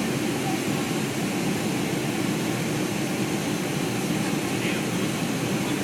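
Steady jet engine and airflow noise inside the passenger cabin of a Boeing 757-200.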